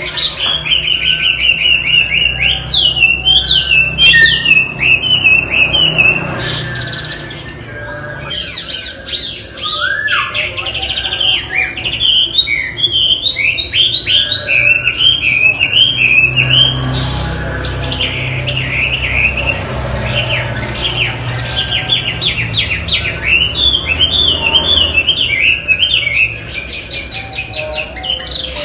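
Chinese hwamei (wambi) singing loudly: long runs of rapid, quickly repeated whistled notes that slide up and down in pitch, with a brief lull partway through.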